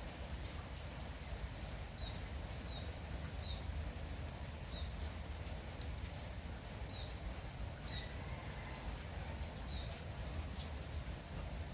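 A small bird chirping over and over, short high chirps about once a second, over the steady hiss of light morning rain and a low rumble.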